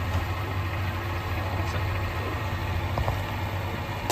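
A small boat's engine running steadily, a low even drone.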